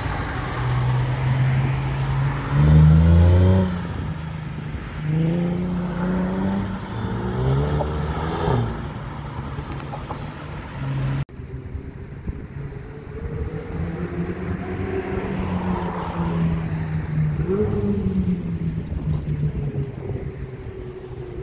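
Supercar engines accelerating hard past, the pitch climbing and dropping back several times as they shift up through the gears, loudest a few seconds in. After an abrupt cut about eleven seconds in, another engine runs at a steadier pitch, rising once more near the end.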